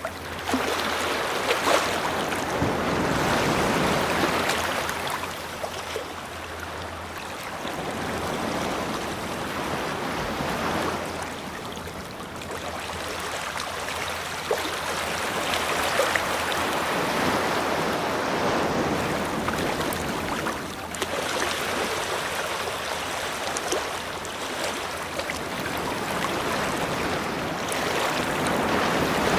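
Ocean waves washing onto a shore, the surf swelling and falling away again every several seconds.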